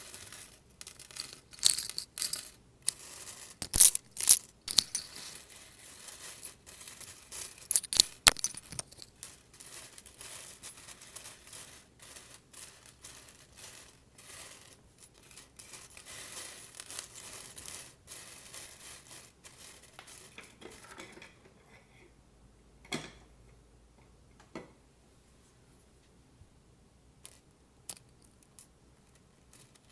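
Metal paper clips being handled close up: a dense run of small clinks and rattles that thins out about 21 seconds in to a few separate clicks.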